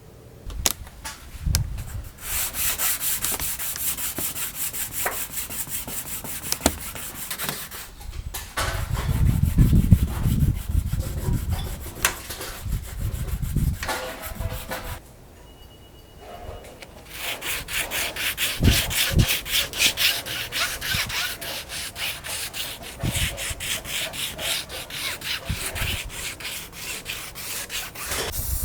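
Hand sanding of the car's engine-bay metal as surface prep before painting: quick back-and-forth rubbing strokes, about three to four a second, stopping briefly twice.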